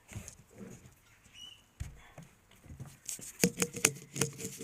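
Hands fumbling with small objects: scattered soft rustles and taps, then a quick run of sharp clicks and knocks about three seconds in.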